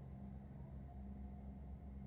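Tractor engine running steadily and faintly as a low hum.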